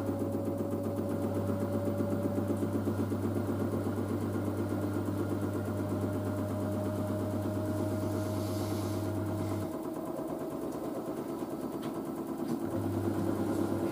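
LG DirectDrive F1496AD washer dryer in its spin, the direct-drive motor whining with a pitch that rises slowly as the drum speeds up. Under it runs a steady low hum from the drain pump, which cuts out about ten seconds in and comes back on near the end.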